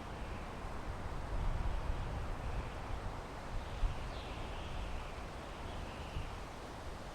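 Wind blowing through pine trees: a steady rushing noise with a low rumble that swells and eases. A few faint high chirps come through about four to six seconds in.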